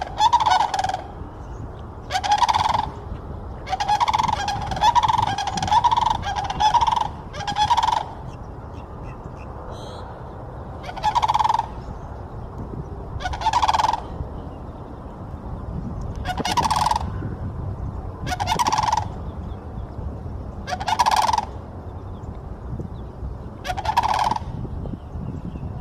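Sandhill cranes bugling: a bunch of loud, overlapping calls over the first eight seconds, then single calls repeated about every two and a half seconds.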